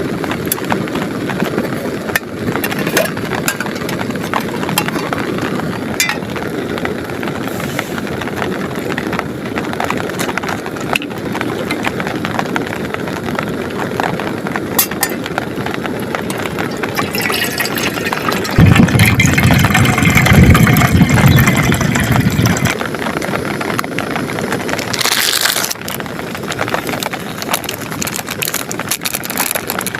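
Heavy rain pattering on a plastic tarp, a dense steady hiss full of small drop hits. About nineteen seconds in, a deep rumble of thunder rises and runs for about four seconds, the loudest sound here.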